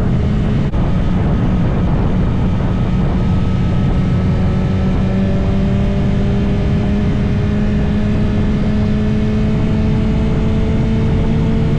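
2022 BMW S1000RR's inline-four engine running under way at a steady cruise, its pitch rising slowly as the bike gathers speed, over a constant rush of wind noise. It dips momentarily about a second in.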